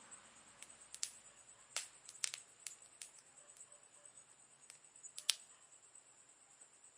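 Wood campfire crackling: scattered sharp pops and snaps at an uneven pace, the loudest about five seconds in, over a faint hiss and a thin steady high tone.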